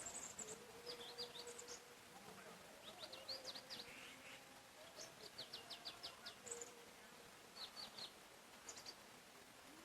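Faint birdsong from several small songbirds: short high chirps in quick runs of a few notes at a time, coming every second or so and thinning out near the end.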